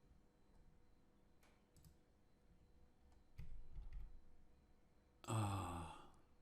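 A few faint computer mouse clicks, a low dull bump about three and a half seconds in, then a short wordless vocal sound from the narrator near the end.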